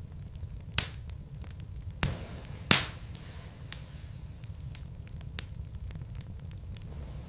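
Wood fire crackling in a fireplace: a steady low rumble of burning logs with scattered faint crackles and a few sharp pops, the loudest pop about two and a half seconds in.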